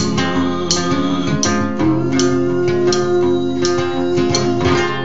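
Guitar music with no singing: plucked notes over sustained, ringing chords.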